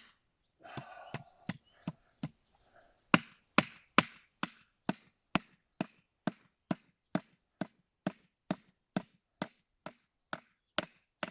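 Hammer driving nails into the front of an oak-log nest box: steady, sharp blows about two a second with a light metallic ring, pausing briefly a few seconds in.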